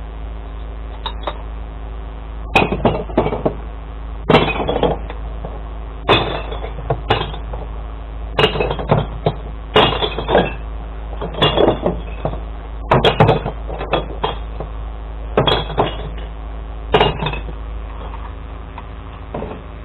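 Glass bottles and jars crashing and smashing as they are tipped into a glass recycling truck's compartments, about a dozen crashes every second or two, over the steady running of the truck's engine.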